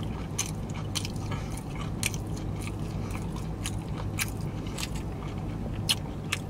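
A person chewing a mouthful of bacon double cheeseburger with the mouth close to the microphone, with wet smacks and clicks a few times a second.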